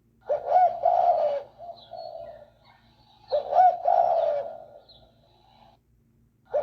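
Pigeon or dove cooing: two low, soft cooing phrases about three seconds apart, with another starting right at the end.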